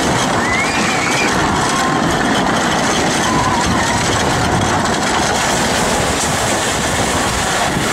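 Tornado wooden roller coaster train running along its track, a steady loud rumble and clatter of wheels on rails.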